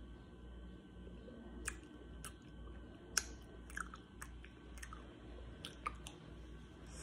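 Close-up mouth sounds of a man chewing and biting a chocolate-coated Magnum ice cream bar: scattered sharp cracks and clicks of the hard coating breaking, about a dozen of them, the loudest a little past three seconds in.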